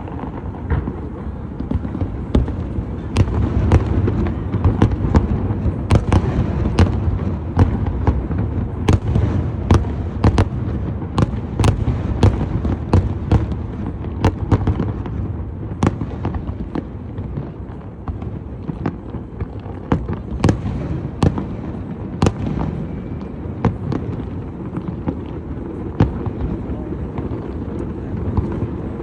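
A fireworks display: shells bursting in a continuous low rumble, with many sharp cracks and pops, several a second.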